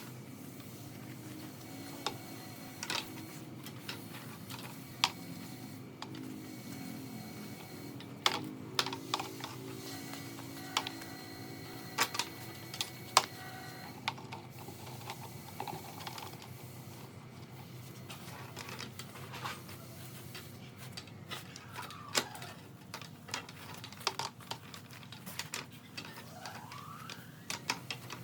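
Irregular light clicks and taps, scattered unevenly and thickest in the middle, over a steady low hum.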